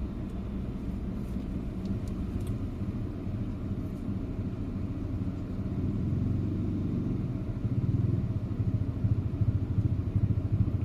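Low, steady engine rumble aboard a car ferry, growing louder about two-thirds of the way through and taking on a quick pulsing beat.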